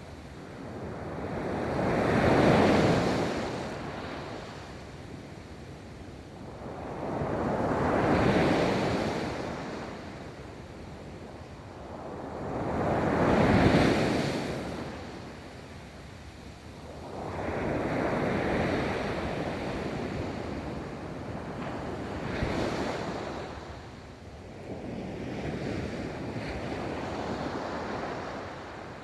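Ocean waves breaking and washing up a beach, a new wave swelling in and fading about every five to six seconds.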